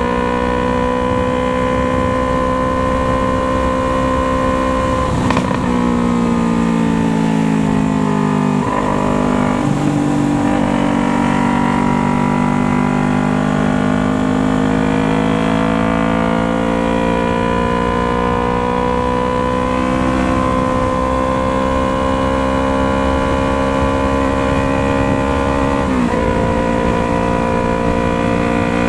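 Yamaha MT-03's parallel-twin engine running through an aftermarket Jeskap exhaust while riding. The engine note drops about 5 and 9 seconds in, then climbs slowly, with a brief dip about 26 seconds in.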